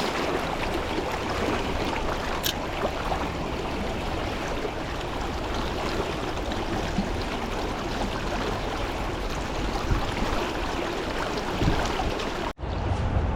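Steady rushing of stream water. Near the end the sound cuts out for an instant and comes back with more low rumble, like wind on the microphone.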